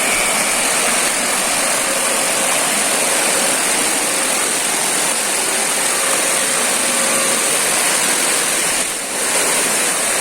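Steady rush of falling and flowing river water, with a brief dip in level about nine seconds in.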